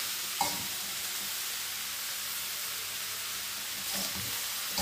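Sliced mushrooms sizzling in hot oil in a wok as a spatula stirs them: a steady frying hiss, with a sharp scrape of the spatula against the pan about half a second in and a few softer knocks near the end.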